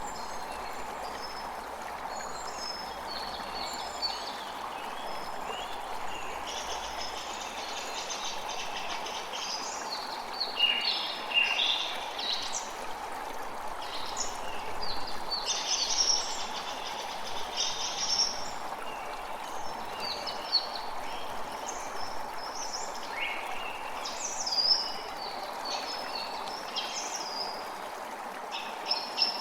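Creek water running steadily, with many songbirds chirping and trilling over it, the calls overlapping and a few louder ones standing out.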